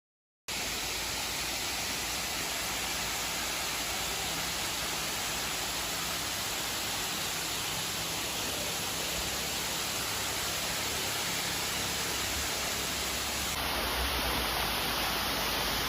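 Steady rush of a waterfall, starting abruptly about half a second in and changing slightly in tone near the end.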